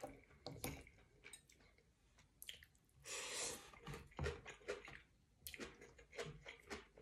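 Quiet, close-miked eating: wet chewing and mouth smacks with small clicks throughout, and a brief rushing sound about three seconds in.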